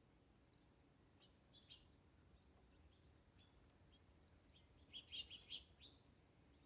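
Small birds chirping faintly in short high calls, with a quick flurry of chirps about five seconds in.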